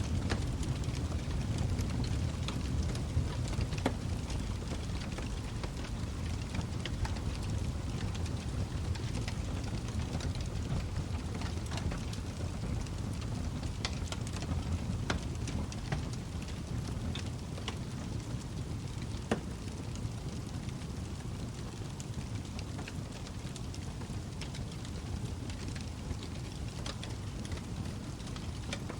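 Log fire burning in a fireplace: irregular sharp crackles and pops from the burning wood over a steady low rumble of the flames.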